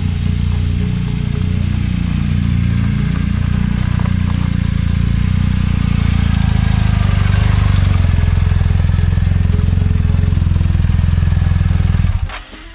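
BMW R1250 GSA's boxer-twin engine running steadily under way, loud, with a rushing hiss over it. It cuts off abruptly near the end.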